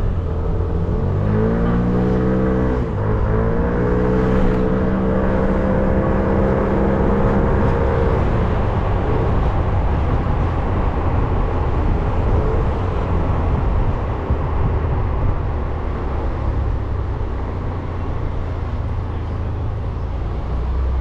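Motorcycle engine accelerating: its pitch climbs, drops back and climbs again through gear changes in the first few seconds, then holds steady for several seconds. After that it fades into steady road and wind noise as the bike rides on.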